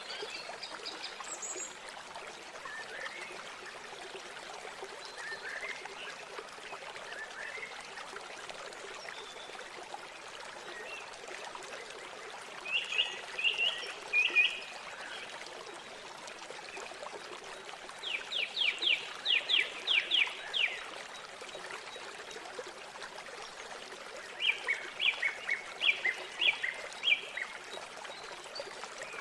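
Manzanares river water flowing steadily, with a bird singing over it in three bursts of quick repeated high notes: about a third of the way in, around two-thirds, and near the end.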